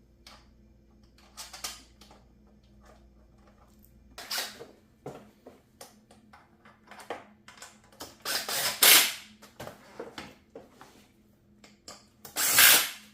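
Assembly noises: small clicks and knocks of parts and fasteners being handled, broken by short bursts of a power tool running, the loudest two about eight seconds in and near the end.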